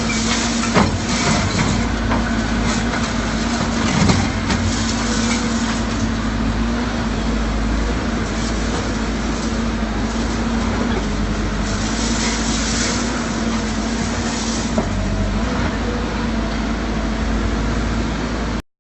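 Excavator diesel engine running steadily with a constant hum, while its hydraulic pulverizer works on concrete: a few sharp knocks and cracks, and a short spell of hiss about twelve seconds in.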